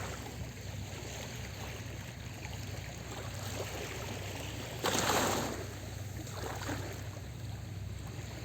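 Small sea waves washing on the shore in a steady wash, with one louder wave breaking about five seconds in.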